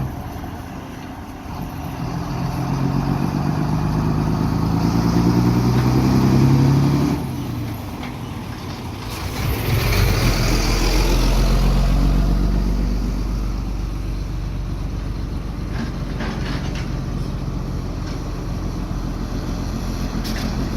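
Excavator's diesel engine working under load. Its pitch rises for about five seconds, then drops back suddenly. About ten seconds in comes a deep rumble with a noisy rush lasting a few seconds, then the engine runs steadily.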